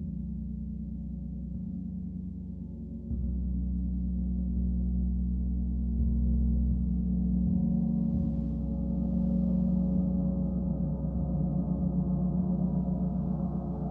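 Gong ringing with a deep, sustained hum of many overlapping tones. It swells as it is played again, about three seconds in and again about six seconds in.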